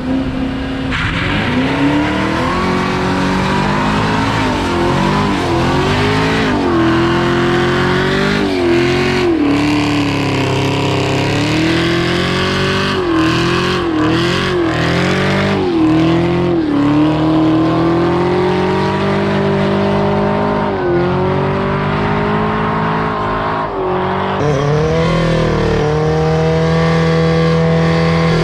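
Large diesel truck engine revving hard and held at high revs, its pitch rising and dipping over and over over a hiss of tyre noise, as in a burnout. Near the end it settles into a steadier, higher drone.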